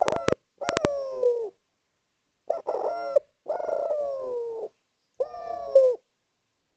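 Spotted dove (derkuku) cooing: five loud phrases separated by short gaps, the longer coos sliding slightly down in pitch. A few sharp clicks sound within the first second.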